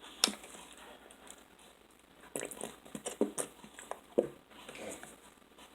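A person eating at close range: chewing and mouth sounds with scattered short clicks, one sharp click just after the start.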